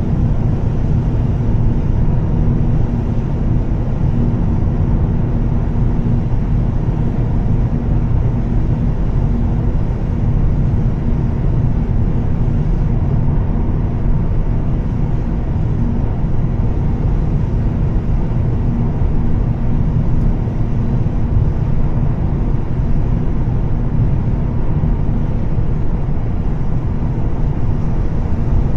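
Volvo S60 T6's turbocharged straight-six with a Heico exhaust, running at a steady cruise with an even drone and constant road and tyre noise from a moving car.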